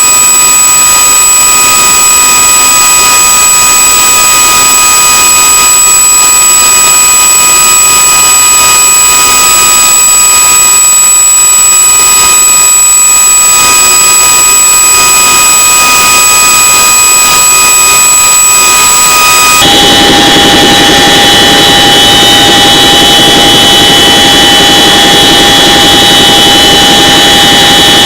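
CH-47 Chinook helicopter's twin turboshaft engines and rotors running: a loud, steady turbine whine with several high steady tones over a rushing noise. About twenty seconds in the sound changes abruptly to a different mix of tones.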